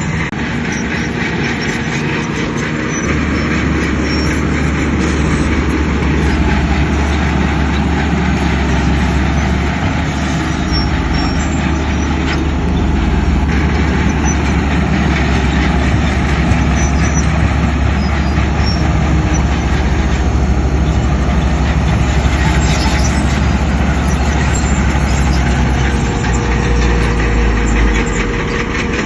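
Heavy diesel earthmoving machinery running under load, a steady deep engine note that grows louder about three seconds in.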